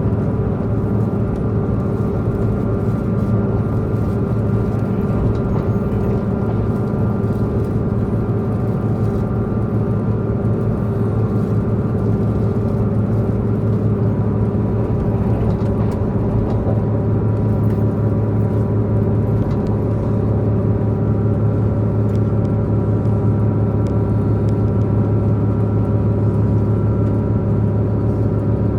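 Diesel engine of a Tze-Chiang diesel multiple unit train running steadily under way, heard from inside the passenger car as an even droning hum with the running noise of the train. The engine drone grows a little stronger past the middle.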